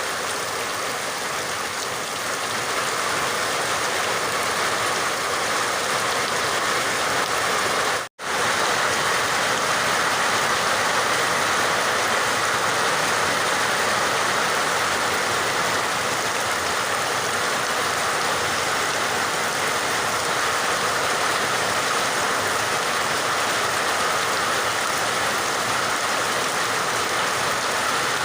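Steady, even rain. About eight seconds in the sound cuts out for an instant and resumes.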